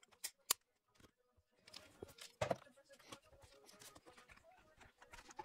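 A few scattered light clicks and knocks, the loudest about two and a half seconds in, with a near-silent stretch near the start.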